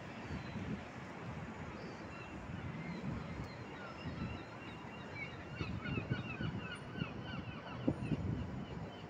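A bird calling in a rapid series of short, falling notes, about three or four a second, clearest in the second half, over a low, uneven rumble.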